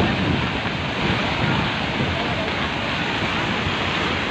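Steady rushing noise of heavy rain and running water in a storm, with wind buffeting the microphone.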